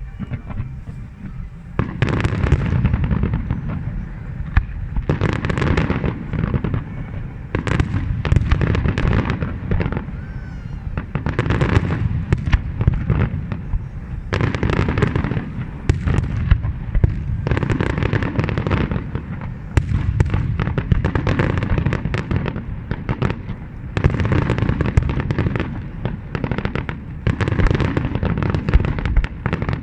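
Large fireworks display: a dense, continuous barrage of shells bursting and crackling, in waves of louder volleys.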